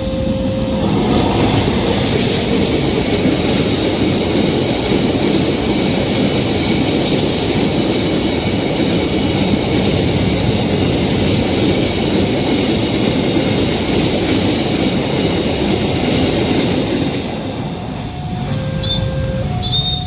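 A train passing close by at speed, a loud rumble and clatter of wheels over the rails with a steady high squeal from the wheels on the curved track, dying away about three seconds before the end. Near the end, short repeated electronic tones sound.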